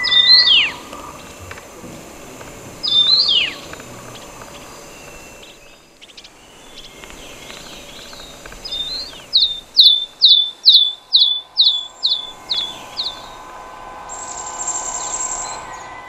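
Wild bird calling: two sharp downward-sweeping calls a few seconds apart, then a run of about nine quick descending notes, two or three a second, and near the end a thin, high, held note lasting about two seconds.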